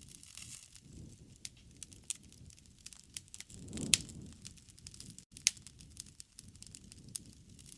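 Wood fire crackling: scattered sharp pops and snaps over a low rumble of flames, with the loudest pop about four seconds in and another a second and a half later.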